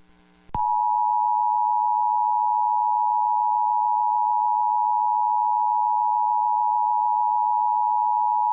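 Emergency Alert System attention signal: the two-tone 853 Hz and 960 Hz alert tone, sounding as one steady, loud blare. It starts about half a second in and heralds a broadcast severe thunderstorm warning.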